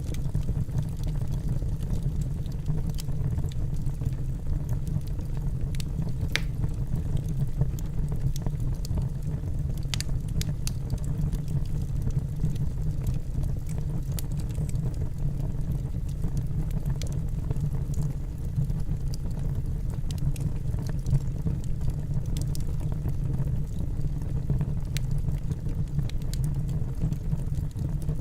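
Wood fire burning in a fireplace: a steady low rumble of the flames, with scattered sharp crackles and pops from the logs.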